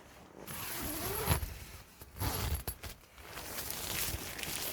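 A tent zipper pulled in several short runs.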